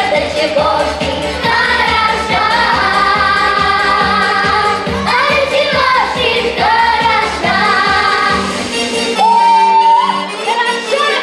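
A pop-style song sung over a backing track with a steady bass beat. About nine seconds in, the beat drops away and the singer holds one long high note.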